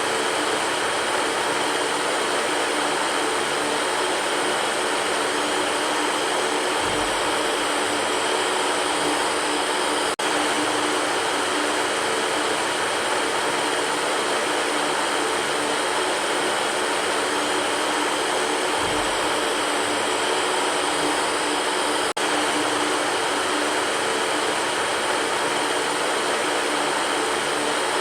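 Electric fan running steadily: an even whooshing noise with a faint hum. Twice, about twelve seconds apart, there is a brief click with a short dip in level.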